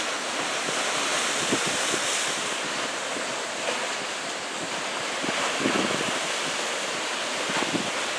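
Ocean surf from a typhoon swell, breaking and washing steadily, with wind buffeting the microphone in a few low gusts.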